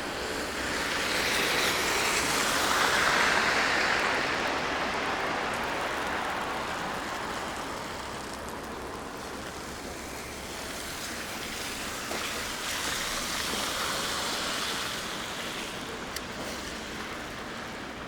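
Road traffic on a snowy downtown street: tyre noise from passing cars swelling and fading twice, loudest about three seconds in and again around thirteen seconds.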